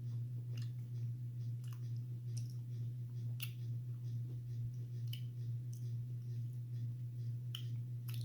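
A person chewing a mouthful of juicy doughnut peach: a few soft, scattered mouth clicks over a steady low electrical hum.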